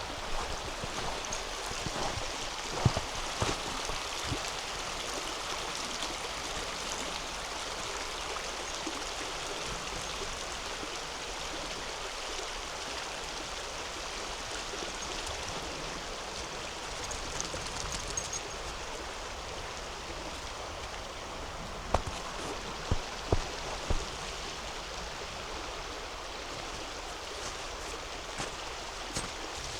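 The Křemelná River running steadily over its bed, an even rushing of water. A few footsteps on compacted snow sound in the first few seconds and again about three-quarters of the way through.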